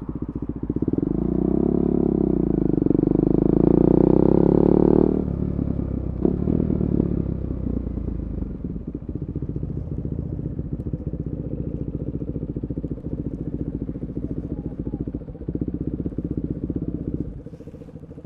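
KTM 390 Duke's single-cylinder engine, breathing through an Akrapovic slip-on and decat pipe, is revved hard for a few seconds and then snaps shut. A few crackles follow as it settles back to a steady, lumpy idle, which becomes quieter near the end.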